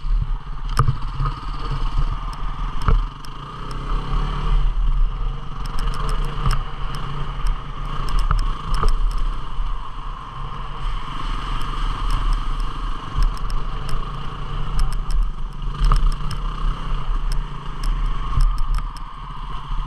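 A 250 cc single-cylinder dual-sport motorcycle engine running steadily under way, with frequent sharp clicks and rattles over rough trail.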